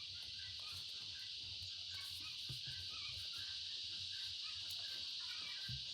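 Soft background music over a nature ambience: short bird-like chirps and a steady, high insect chirring that holds throughout.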